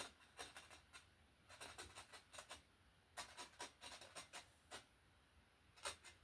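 Palette knife edge scraping through wet oil paint on canvas: faint, short scratching strokes in several quick runs with brief pauses between, as twigs are scratched out of a dark area.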